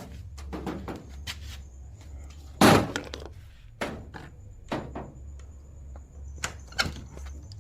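A string of irregular knocks and thumps, with one louder, longer bang about two and a half seconds in, over a steady low hum.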